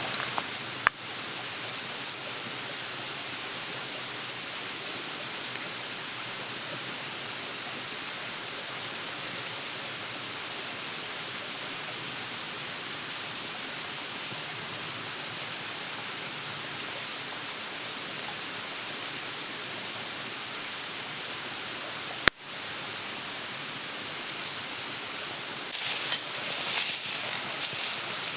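A steady, even rushing hiss, broken by two sharp clicks, one about a second in and one near the three-quarter mark. About two and a half seconds before the end, food starts sizzling loudly in a hot pan.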